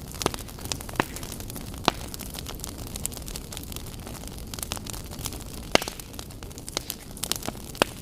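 Wood fire burning in a fireplace, crackling and popping steadily over a low rumble, with a few louder sharp pops.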